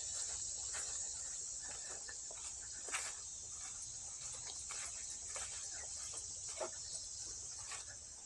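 Steady, high-pitched insect chorus, with scattered soft clicks and rustles over it.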